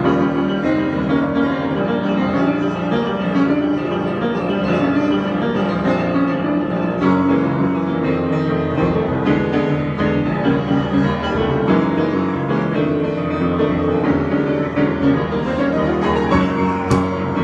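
Improvised piano music, played without a break.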